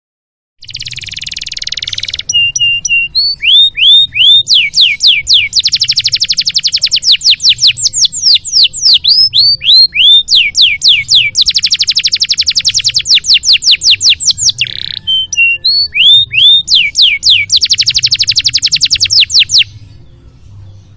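Domestic canary singing a long song: a short harsh rattle, then runs of quick downslurred whistles alternating with long, very fast rolling trills, ending abruptly near the end.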